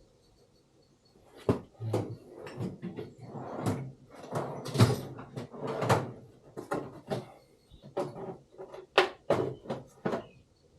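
Irregular clunks, knocks and clatter of metal parts and tools being handled, starting about a second and a half in and coming thick and fast, some much louder than others.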